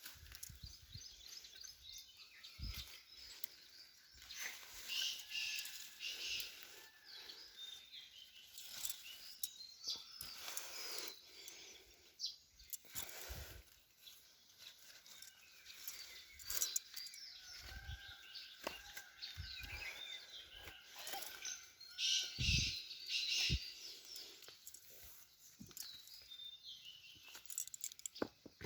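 Small birds chirping and calling in short, repeated phrases, loudest in two bursts about a fifth of the way in and again about four-fifths through, with scattered clicks and knocks.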